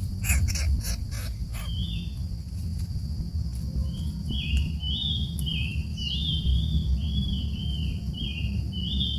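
A small bird giving a run of about ten short chirps, a little over one a second, with a few clicks just before them. A low rumble runs underneath.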